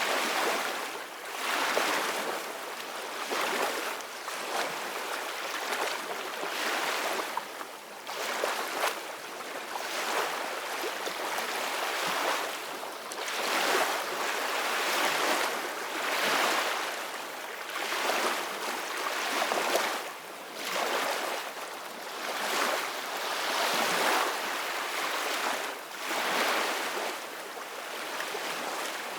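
Sea waves washing and breaking in repeated surges every couple of seconds, a steady hissing rush that swells and fades.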